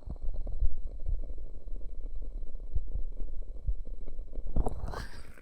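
Hands cupping and pressing over the ears of a binaural microphone: a muffled, low rumbling with irregular soft thumps as the hands shift. There is a brief brighter rustle near the end.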